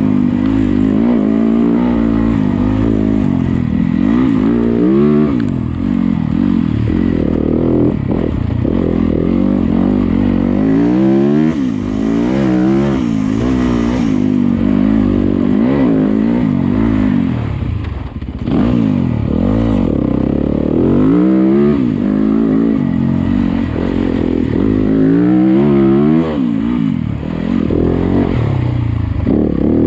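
Yamaha YZ250FX dirt bike's 250 cc four-stroke single-cylinder engine revving up and down continuously under trail riding, its pitch rising and falling every second or two as the throttle is worked. The throttle is briefly shut off about two-thirds of the way through.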